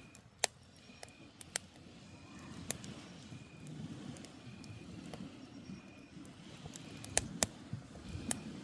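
Wood campfire burning, with sharp crackles and pops at irregular moments, loudest about half a second in and near the end. A grass insect chirps about once a second over a steady low rush.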